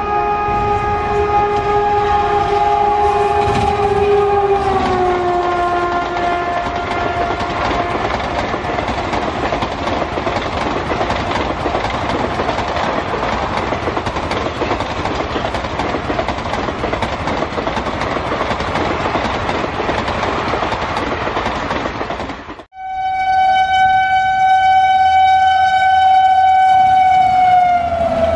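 Indian Railways electric locomotive sounding a long horn that drops in pitch as it passes, followed by the coaches rushing by at speed with wheels clattering over the rails. After a sudden break, a WAP-7 electric locomotive sounds another long horn that falls in pitch as it goes by.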